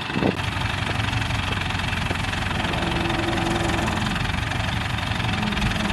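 An engine running steadily, with a short faint whine in the middle.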